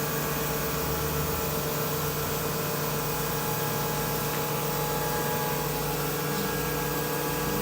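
2008 Anderson CNC router running a circle-cutting program, its spindle turning at about 9,000 RPM: a steady whine over an even hiss, unchanging throughout.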